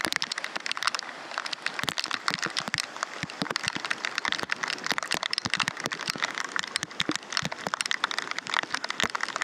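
Heavy downpour: a dense, irregular crackle of raindrops striking close by, over a steady rushing hiss of rain and the swollen, flooded creek.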